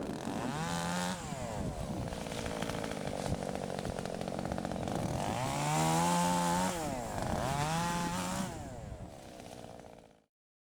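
Shindaiwa E1027TS two-stroke chainsaw engine running after its repair, revved up three times from a lower speed, the longest rev held about a second, before the sound fades out near the end.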